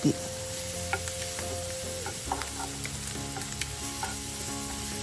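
Diced salted fish frying in a little oil in a non-stick pan: a steady sizzle, with a few light clicks from a spatula.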